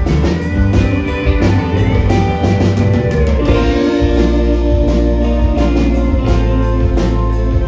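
Live band playing an instrumental passage of a rock song: guitars over bass and a steady drum beat with regular cymbal strokes.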